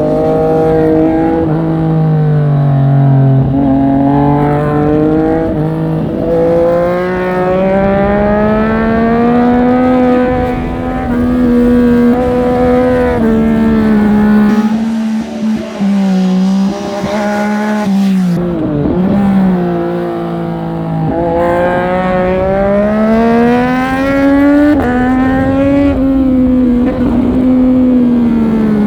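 Triumph Street Triple 765RS's three-cylinder engine under hard riding, its revs climbing and dropping back again and again through the gears, with a quieter off-throttle stretch about halfway before it pulls hard again.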